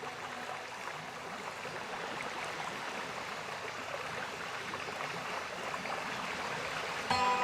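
Steady rushing noise like running water. Just before the end, background music with held tones comes in.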